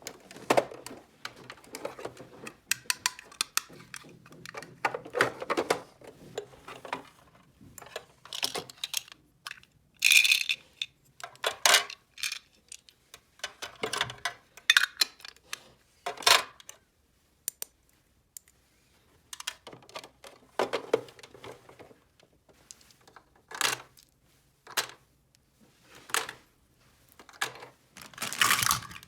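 Small plastic toy kitchen pieces clicking and clattering as they are handled and set down. The sound comes in irregular clusters of sharp clicks, with a pause of a couple of seconds past the middle.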